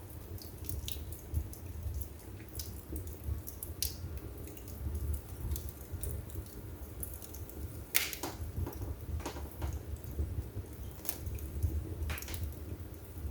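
Wood fire burning in a fireplace: irregular crackles and pops over the low rumble of the flames, with the sharpest pop about eight seconds in.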